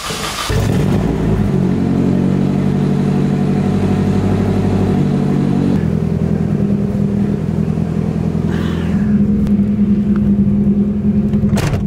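Straight-piped Nissan S13 240SX engine starting up, then running loud at a steady idle. The idle note shifts slightly about six seconds in, and there is a sharp click near the end.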